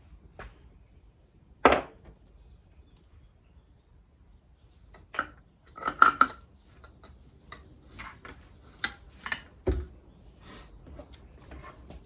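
Metal motorcycle fork parts clinking and knocking as they are handled and fitted together: scattered sharp clicks, with a louder knock near the start, a quick cluster of clinks midway and a dull thud near the end.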